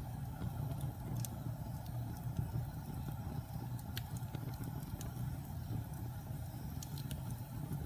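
Wood fire burning in a fireplace: a steady low rumble of flames with a few sharp, scattered crackles.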